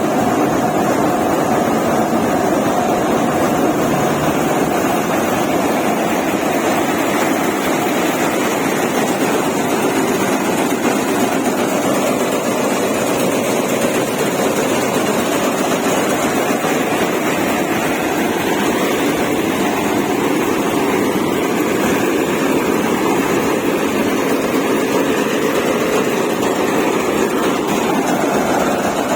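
Heavy diesel machinery engine running steadily: a loud, even drone with no change in speed.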